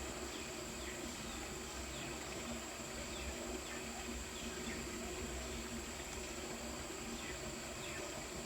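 Rural outdoor ambience: insects droning steadily on a high pitch, with scattered short falling bird chirps over it.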